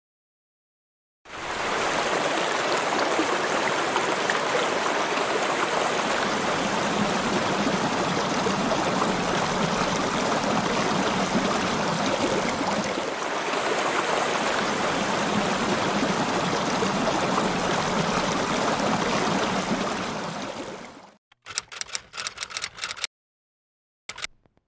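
Rushing, splashing water, a steady noise that starts about a second in and fades out near the end, followed by a quick run of typewriter keystrokes.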